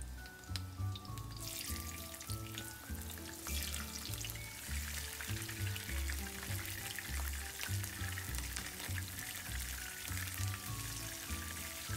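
Green bell pepper pieces deep-frying in oil in a frying pan: a crackling sizzle of their moisture boiling off, which starts about a second in and grows louder a couple of seconds later.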